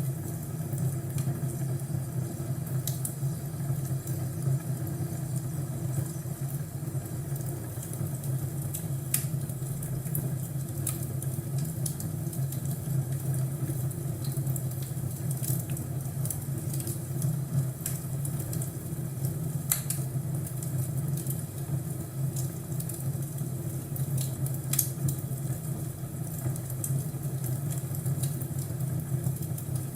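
Crackling wood fire in a fireplace: irregular sharp pops and crackles over a steady low rumble.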